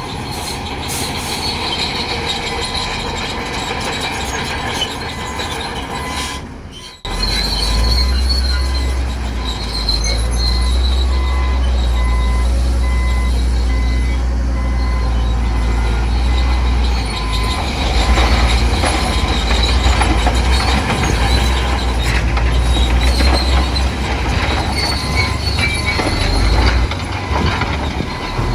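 Crawler bulldozer working, its diesel engine running under load with its steel tracks squealing and clanking. The sound drops out briefly about seven seconds in.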